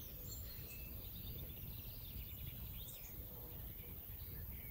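Small birds chirping and singing: scattered short calls that slide up and down in pitch, over a steady low rumble.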